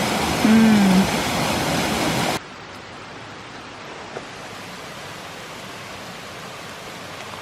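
Waterfall rushing close by, a loud steady hiss of falling water. About two and a half seconds in it cuts suddenly to a much quieter, duller steady rush of water.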